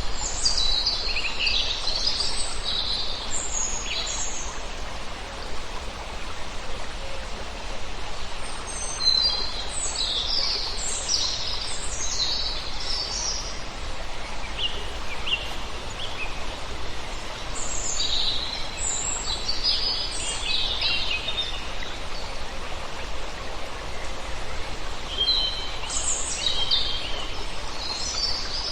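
Small birds chirping in quick, high-pitched clusters, with pauses of a few seconds between bouts, over a steady background hiss.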